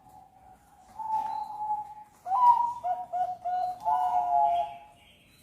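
Zebra dove (perkutut) cooing. A soft held note comes about a second in, then a louder phrase of a few quick short notes ending in a held note.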